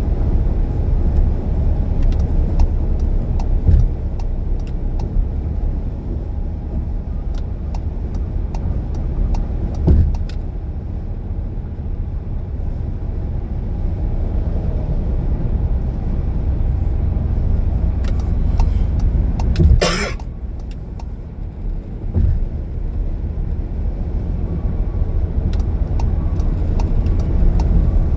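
Car driving, a steady low road and engine rumble with a few short thumps and one louder sudden burst about two-thirds of the way through.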